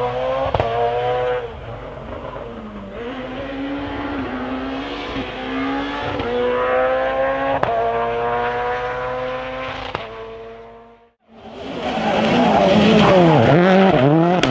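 Rally car engine accelerating hard through several upshifts, the pitch climbing and dropping at each shift with sharp pops at some of the changes, then fading away about eleven seconds in. After an abrupt break, another rally car comes in loud, its engine pitch rising and falling quickly as the throttle is worked.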